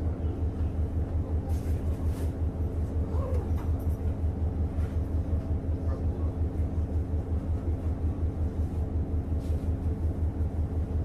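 Inside a JR Hokkaido KiHa 150 diesel railcar: the underfloor diesel engine throbbing steadily in a fast, even low pulse, with a faint steady hum above it and a few light knocks.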